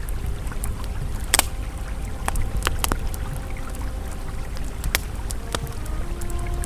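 Campfire crackling with scattered sharp pops, the loudest about 1.4 s in, over the steady low rush of a flowing river. Faint soft sustained ambient tones sit underneath.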